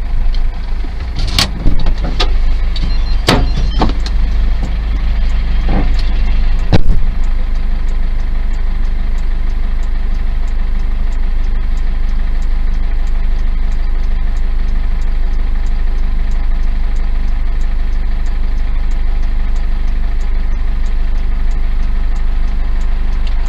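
A car running, heard from inside the cabin as an even low drone. Several sharp knocks and bangs come in the first seven seconds, then only the steady drone with faint, regular ticks about twice a second.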